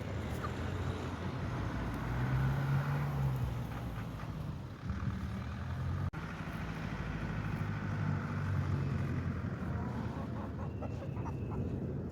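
Low, steady engine rumble, swelling twice.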